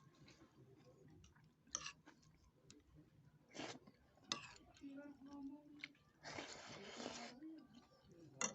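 Quiet eating sounds of a meal of bakso with rice: chewing with scattered small clicks, a few sharp knocks, and a longer noisy sound lasting about a second some six seconds in.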